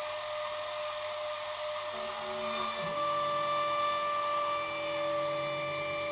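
Stepper motors of a homemade Arduino CNC machine with A4988 drivers, whining at steady pitches that switch in steps as the axes move. A new, louder tone starts about three seconds in.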